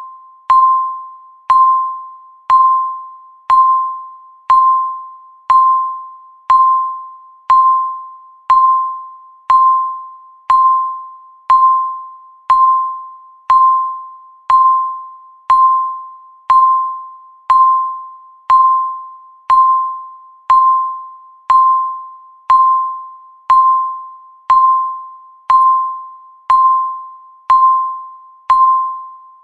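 A countdown timer's electronic beep, one short ringing tone near 1 kHz sounded once a second and fading after each strike, marking every passing second.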